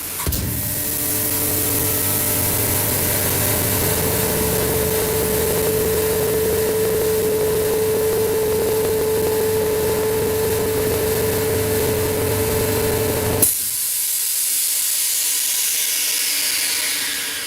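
An electric air pump or compressor runs steadily with a constant hum, then shuts off abruptly about 13 seconds in, leaving a hiss of escaping air that fades away.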